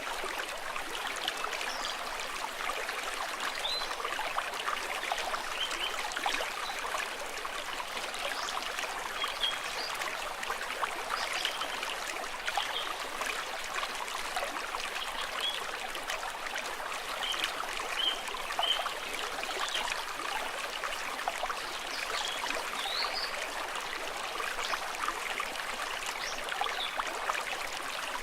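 Stream water trickling and gurgling steadily, with many small bright splashes.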